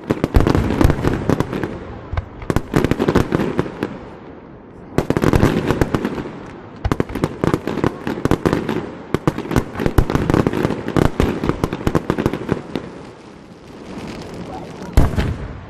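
Fireworks display: dense volleys of bangs and crackles, easing off briefly about four seconds in and again near the end, where a single loud bang stands out.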